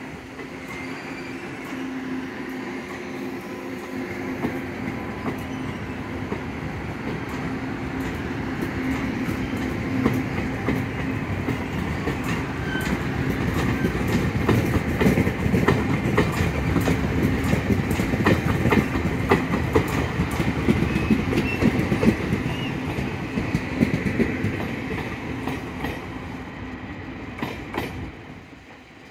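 Taiwan Railway FPK10600/10500-series passenger coaches rolling past as the train pulls out, wheels clicking over rail joints faster and louder as it gathers speed, over a steady low hum. Near the end the sound drops away as the last coach passes and recedes.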